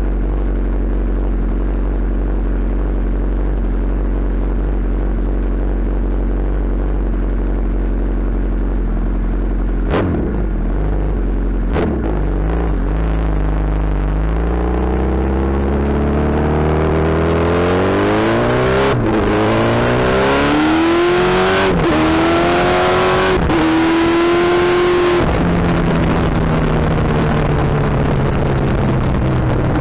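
Suzuki Hayabusa's inline-four engine and exhaust running steadily at low revs, then accelerating hard: the revs rise, with three quick upshifts that each drop the pitch, before the throttle closes and it settles to a steady lower note. Two short knocks come about ten and twelve seconds in.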